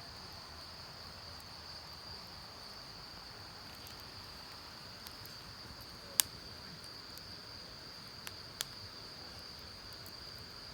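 Wood campfire crackling with a few sharp pops, the loudest about six seconds in and another near the end, over a steady high-pitched chirring of insects.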